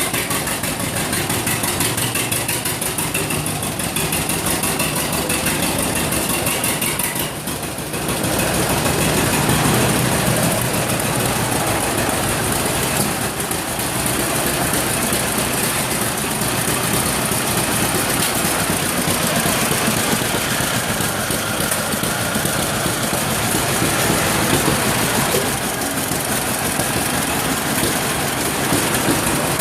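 Old farm tractor engine running steadily at idle, with a brief dip in level about seven seconds in.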